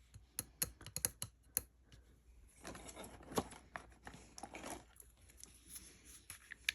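Irregular light clicks and taps of a ring and small testing tools being handled on a tabletop, with soft rustling in between; the sharpest click comes near the end.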